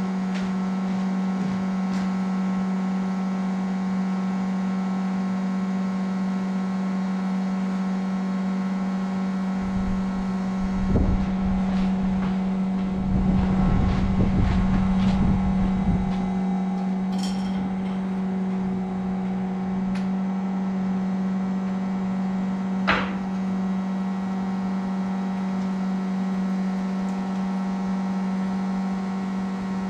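A steady mechanical hum, with louder clattering around the middle and a single sharp knock later on.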